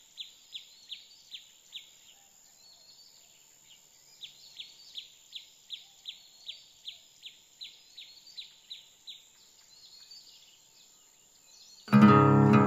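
A bird calling in rapid runs of short, high chirps that slide downward, about two or three a second: a short run, a pause, then a longer run. A faint steady high whine sits behind the calls. Near the end, acoustic guitar music comes in loudly.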